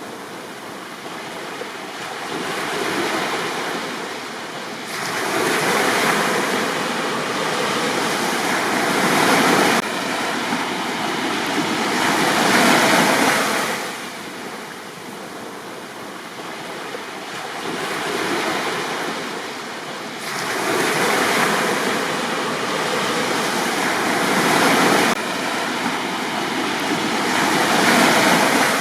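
Sea waves breaking on a beach, the surf swelling and washing back in repeated surges every few seconds.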